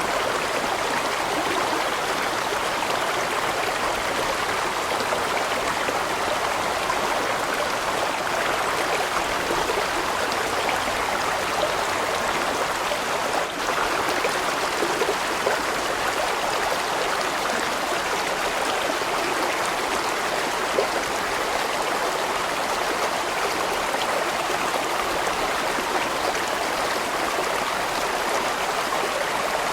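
A large mountain stream rushing steadily over rocks: a continuous, even flow of water with no change in strength.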